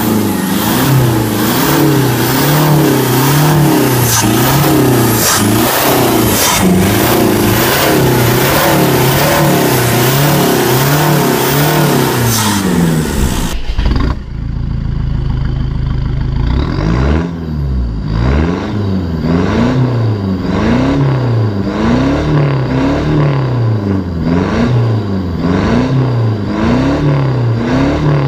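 Toyota Innova's D-4D four-cylinder diesel engine, fitted with an aftermarket exhaust, free-revving at a standstill in quick, even blips about once a second. Near the middle it drops to a steady idle for a few seconds, then the blips resume, sounding duller, as heard from inside the cabin, and climbing past 4,000 rpm.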